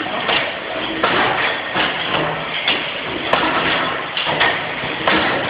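3bhp Crossley atmospheric gas engine, an Otto & Langen-type free-piston engine, running with a clattering, repeated sharp knocks at roughly one or two a second over a steady mechanical noise.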